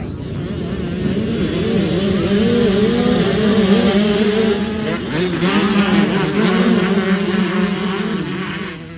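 Off-road racing dirt bike engine revving, its pitch rising and falling with the throttle, growing louder through the middle and dropping away near the end.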